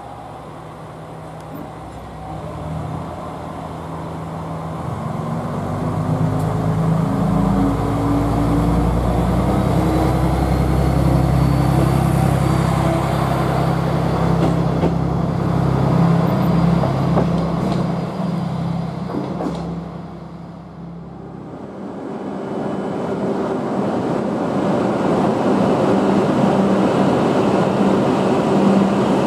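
KiHa 120 diesel railcar pulling away from the platform, its engine working hard with a rising pitch as it accelerates past close by. After a short lull about 21 seconds in, a Hokuriku Shinkansen train moves along the platform with a steady rumble that swells and holds.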